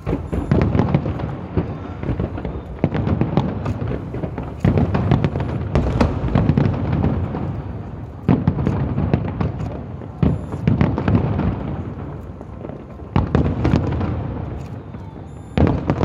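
Aerial fireworks shells bursting one after another, a loud boom every second or two, each trailing off in a low rumble, with scattered crackling between.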